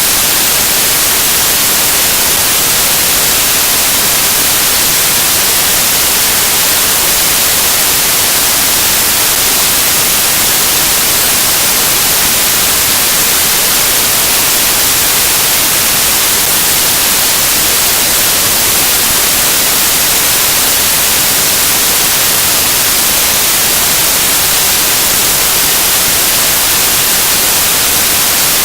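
Loud, steady static hiss, brightest in the high range, unchanging throughout with nothing else heard over it.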